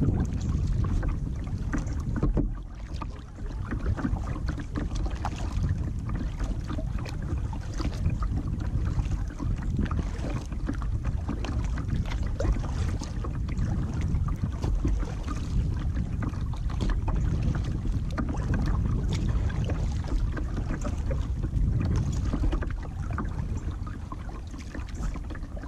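Kayak on the water: a steady wind rumble on the microphone, with many small splashes and knocks scattered through it.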